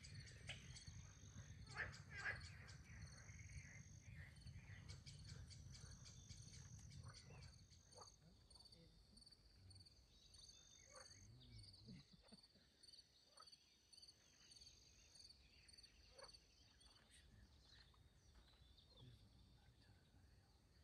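Faint night chorus of frogs and insects: steady, finely pulsed high trills, with a low rumble that fades out about seven seconds in.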